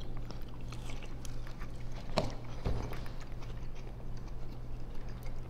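People chewing peanut-butter-covered tomato slices: faint wet mouth sounds and small clicks, with a louder click about two seconds in, over a steady low hum.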